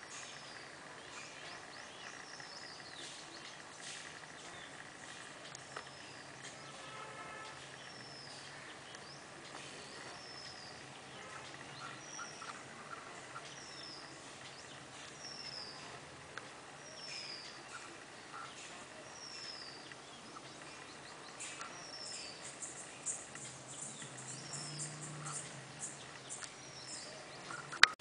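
A songbird repeating a short, high, falling call note about once a second, over steady background hiss, with a rapid high ticking joining in near the end. One sharp click right at the end.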